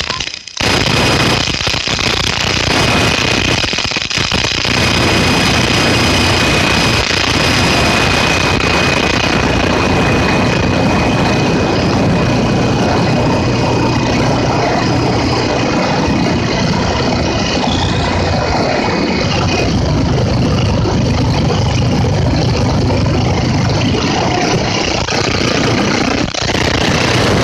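Storm wind in a hurricane, a loud steady roar with heavy buffeting. A thin, steady high whistle runs through it and stops about two-thirds of the way in.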